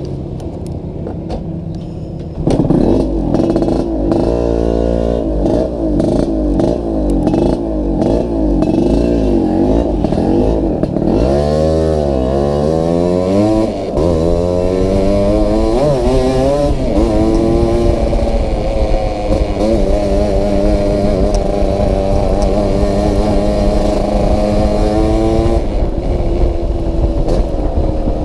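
Yamaha RX-King's 135 cc two-stroke single-cylinder engine riding on the road. It pulls away about two seconds in, its pitch rising and falling through gear changes, then holds a steady speed and eases off near the end. The exhaust has a bad jingling rattle.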